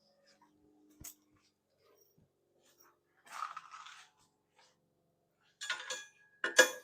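Steel parts and tools being handled: a faint click, a short rasp, then two louder metallic scrapes with a ringing note near the end.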